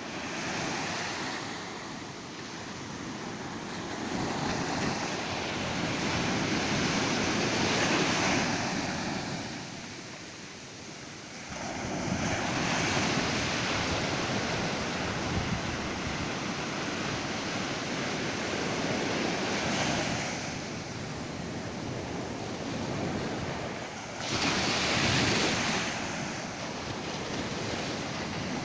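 Ocean surf on a beach: waves breaking and washing in, with louder surges every five to seven seconds and a short lull between them.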